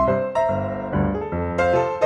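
Background piano music, a chord or note struck about every half second and left to ring.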